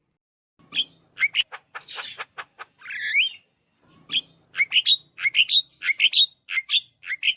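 A bird chirping: a rapid series of short, upward-sweeping chirps starting about half a second in, with a brief pause midway.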